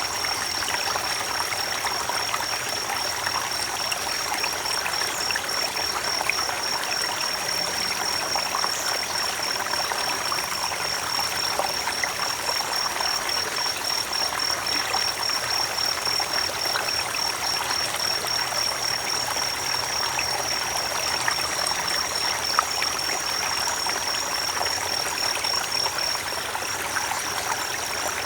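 Creek water running steadily over stones, an even rushing and trickling. A thin, steady, high-pitched trill sounds above it.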